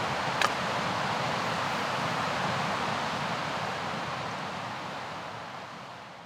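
A mountain river rushing as a steady wash of noise, with one sharp click about half a second in. The sound fades away over the last two seconds.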